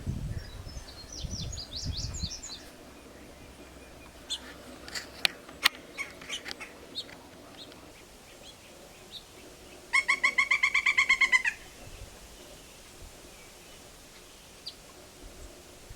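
Wild birds calling in woodland: high chirps at first over a low rumble, a scatter of sharp clicks a few seconds in, then the loudest sound, a rapid run of about fourteen ringing notes lasting a second and a half.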